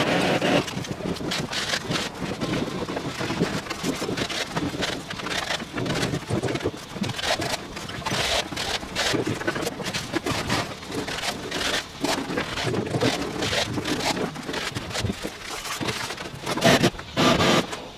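Putty knife scraping and spreading wall filler, a dense run of short, irregular scraping strokes with a few louder strokes near the end.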